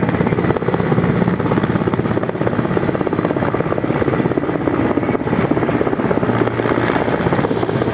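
Helicopter running close by, loud and steady, with the fast chop of its rotor blades over the engine noise.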